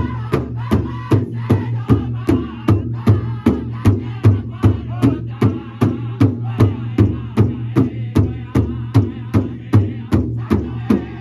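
Powwow drum group singing together around a large drum, beating a steady pulse of about two and a half strikes a second.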